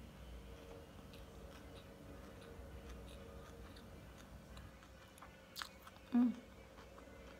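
Quiet chewing of a mouthful of fried ampog, the mealy corn-grit rice, with the mouth closed, with scattered faint clicks. About six seconds in comes a short, louder, low-pitched sound.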